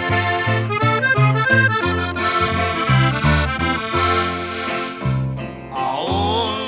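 Norteño music: a button accordion plays the song's introduction over a pulsing bass line. A singing voice comes in near the end.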